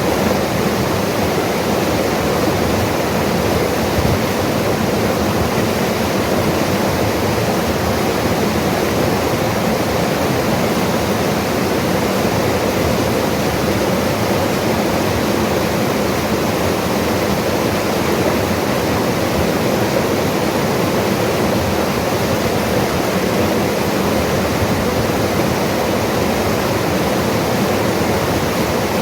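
Mountain river flowing, a steady, even water noise with no breaks or changes.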